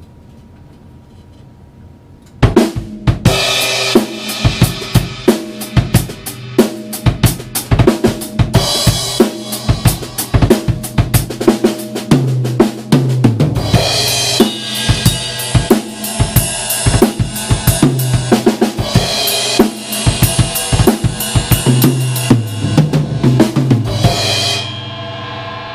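A 1973 Ludwig drum kit with Zildjian cymbals played as a full groove with traditional 5B drumsticks: kick, snare, hi-hat and cymbals. The playing starts about two seconds in and stops just before the end.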